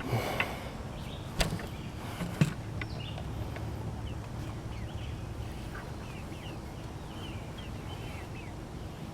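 Chickens peeping faintly in a string of short high chirps, over a steady low hum, with a few knocks in the first couple of seconds.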